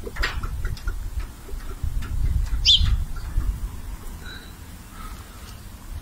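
A single short, high bird call about two and a half seconds in, over a low rumble of noise on the microphone and a few faint clicks.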